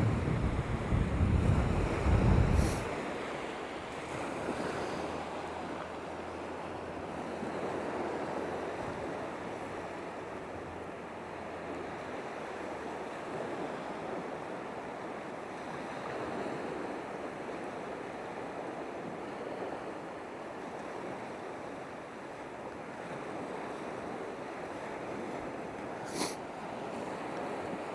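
Surf washing steadily on a shoreline, with wind rumbling on the microphone for the first few seconds. Two short sharp clicks, one a few seconds in and one near the end.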